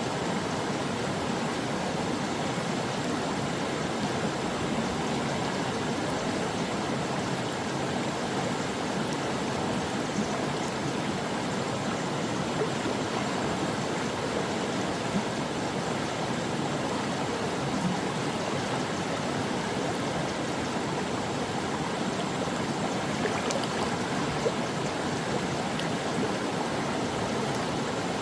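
A shallow stream flowing over rocks, a steady rushing with small gurgles and splashes.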